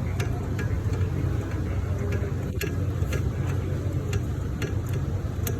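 An engine running steadily with a low hum, with scattered light clicks over it.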